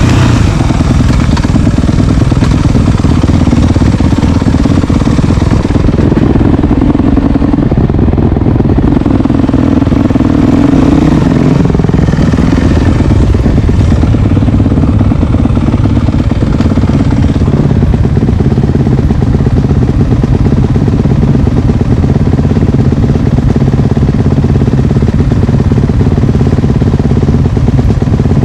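Dirt bike engine running loud and close with no letup, the bike under way on a trail.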